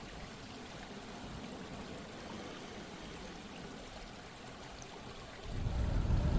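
Steady running water, like a flowing stream. About five and a half seconds in, a louder low rumble joins it.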